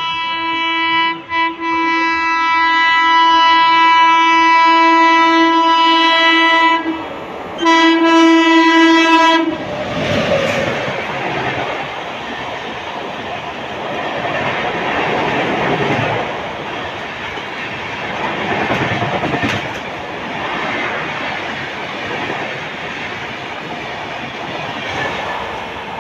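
WAP-7 electric locomotive sounding its horn in two long blasts, with a short break about seven seconds in; the horn ends about nine and a half seconds in. Then an LHB coach rake passes at speed, a steady rush of wheel and rail noise.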